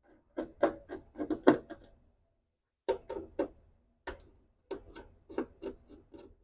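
Screwdriver backing the mounting screws out of a circuit board: three runs of quick, irregular clicks and ticks, about five a second.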